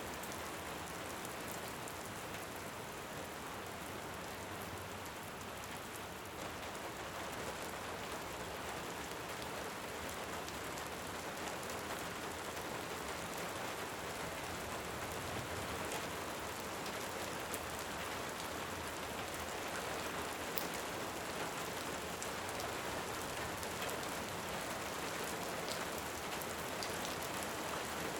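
Steady rain on a surface, an even hiss, with scattered small sharp crackles from a wood fire in a fireplace.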